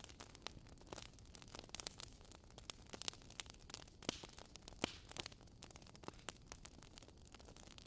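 Wood fire crackling: a steady low hiss with irregular sharp snaps and pops, a few of them louder than the rest.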